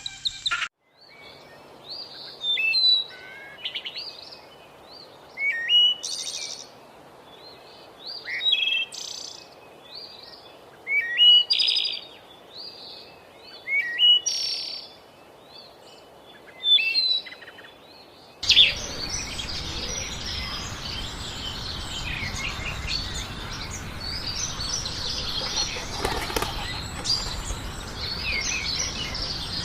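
Birds chirping: short bright phrases of chirps every two or three seconds, then an abrupt cut about two-thirds of the way through to a busier chorus of many overlapping chirps over a steady hiss.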